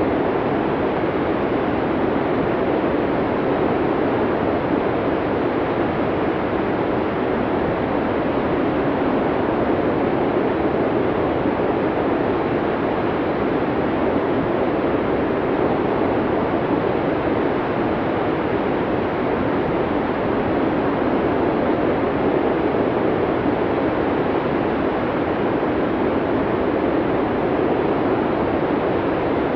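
Blizzard wind blowing steadily, a dense, even rush of noise with no gusts or lulls.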